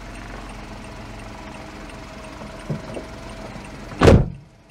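Honda S660's 658cc turbocharged three-cylinder engine idling steadily. About four seconds in comes one loud thump, after which the low engine rumble drops away.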